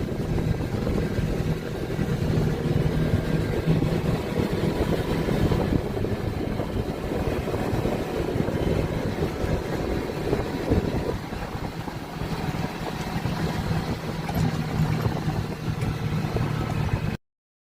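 Off-road vehicle engine running steadily while driving along a dirt trail, with a steady low engine hum; the sound cuts off abruptly near the end.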